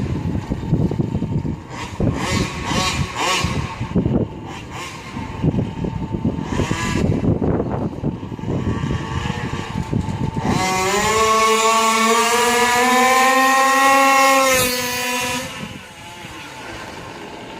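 Stock 36cc two-stroke engine of a Rovan 5T 1/5-scale RC truck running rough and uneven at low revs for about ten seconds, then held at high revs for about five seconds with the pitch slowly climbing, before dropping back to a quieter idle.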